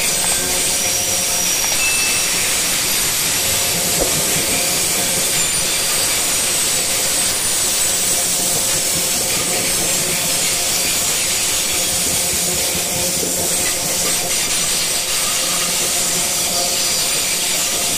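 Loaded coal gondola wagons of a freight train rolling past: a steady noise of steel wheels running on the rails, with some thin high-pitched squealing tones over it.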